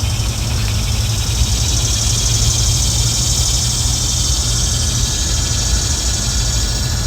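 Outdoor background sound: a steady low rumble under a high, rapidly pulsing buzz that grows louder through the middle.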